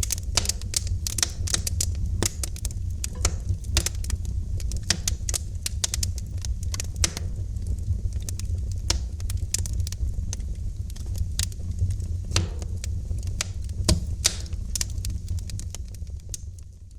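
Wood fire in a fireplace crackling, with many irregular sharp pops and snaps over a steady low rumble of the flames. It fades down near the end.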